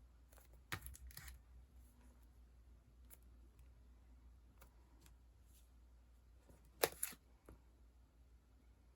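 Sticker sheets and their packaging being handled: a few short, crisp rustles and clicks, the loudest about seven seconds in, over a faint low hum.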